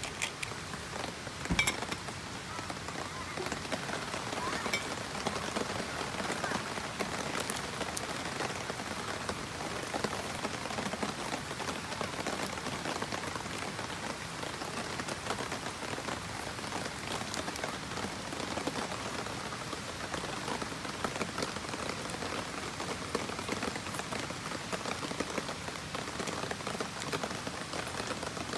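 Steady heavy rain, a dense even hiss of drops, with one sharp knock about a second and a half in.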